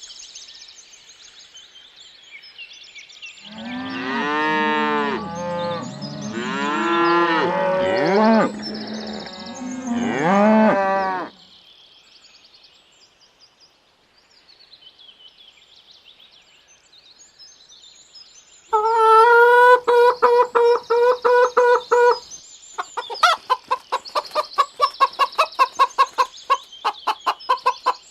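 Cattle mooing, several calls in a row, then a pause. Chickens then cluck in quick pulsed calls for the rest.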